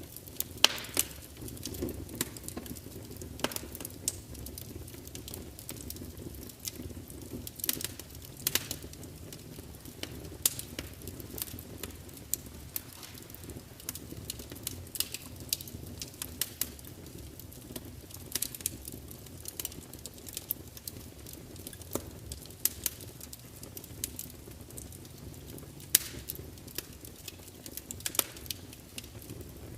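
Wood fire burning in a large open fireplace: a steady low rumble of flames with irregular sharp crackles and pops from the logs, a few louder snaps among them.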